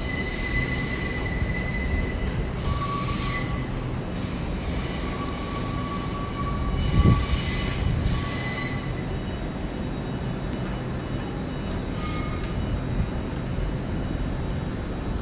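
Train moving slowly along the station tracks, its wheels squealing in three short high-pitched spells over a steady low rumble, with a single thump in the middle.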